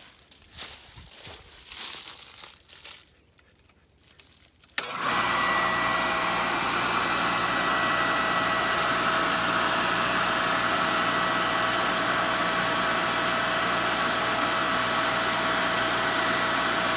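Irrigation pump switched on about five seconds in, going at once from a few faint clicks and rustles to running steadily with a constant whine.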